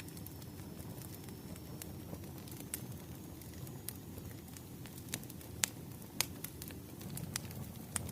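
Wood fire crackling: a steady low rumble of flames with scattered sharp pops, the loudest a little past the middle.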